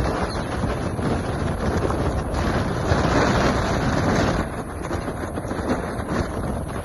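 Wind buffeting the microphone as a loud, steady rush with heavy low rumble, swelling about two to four seconds in and then easing off.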